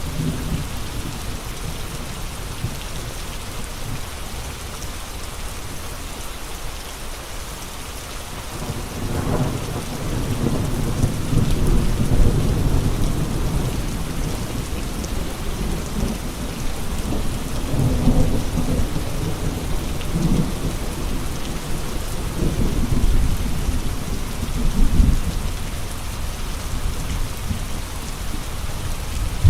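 Steady heavy rain hissing, with strong gusts of wind rumbling through the low end; the gusts start about a third of the way in and keep surging and easing.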